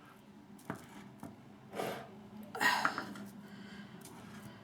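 Shaving brush working lather in a bowl: a light knock, then soft swishing strokes, the loudest about two and a half seconds in.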